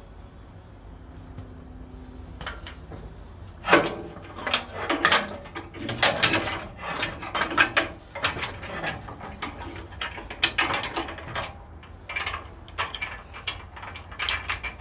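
Irregular metallic clicks, clanks and rattles of parts being handled and fastened on a bandsaw, starting about four seconds in.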